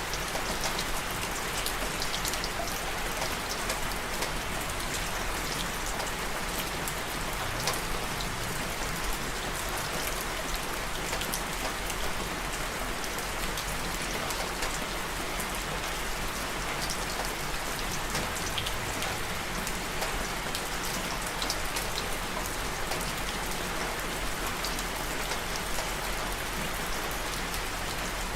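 Steady rain falling, an even hiss studded with the sharp ticks of individual drops striking a surface.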